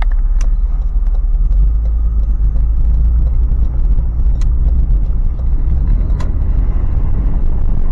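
Toyota 4Runner's 4.0-litre V6 and tyres heard from inside the cabin while driving: a steady low rumble, with a few faint clicks.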